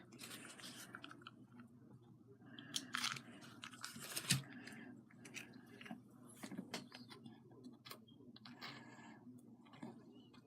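Faint, irregular small taps, clicks and light scraping as small craft pieces are handled and tapped into place on a model.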